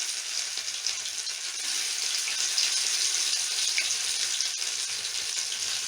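Masala-coated chicken kebab pieces sizzling steadily in hot oil in a frying pan.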